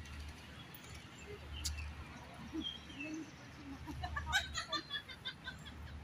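Outdoor ambience with birds calling over a steady low rumble: a few faint chirps, then a quick run of short repeated chirping notes about four seconds in.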